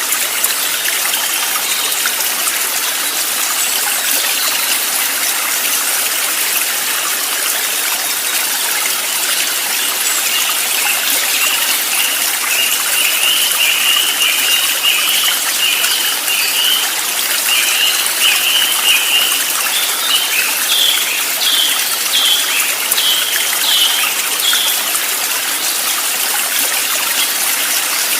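Steady rushing of a flowing stream, with a bird singing a long run of short, quick repeated chirps from about ten seconds in, the notes rising in pitch before stopping a few seconds before the end.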